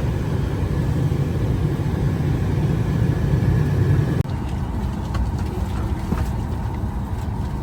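Steady low rumble of airliner and ventilation noise. About four seconds in it cuts suddenly to a quieter steady cabin hum with a few light clicks.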